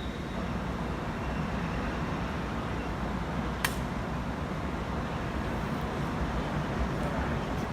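A train rolling through the station: a steady rumble of wheels on rail, with one sharp click about three and a half seconds in.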